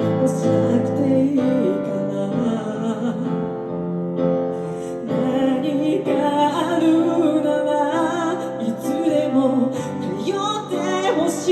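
Live acoustic music: a woman singing a Japanese ballad over her own accompaniment of held chords, her voice clearer and stronger in the second half.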